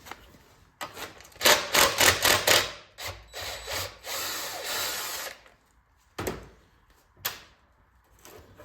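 Tools being handled on a workbench: a quick run of sharp knocks and clatter, scraping noise for a couple of seconds, then two single sharp clicks.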